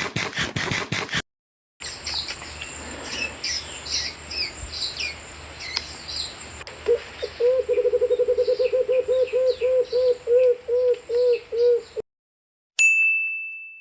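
Recording of wild birds calling: many high chirps and short whistled trills, joined about seven seconds in by a low series of quick, repeated hooting notes like a dove's call, until the recording cuts off. It opens with a brief burst of rapid clicks, and near the end there is a single ringing chime.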